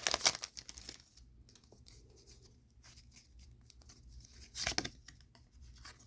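Foil booster pack wrapper tearing and crinkling for about the first second, then faint rustling and clicks of trading cards being handled, with one louder rustle near the end.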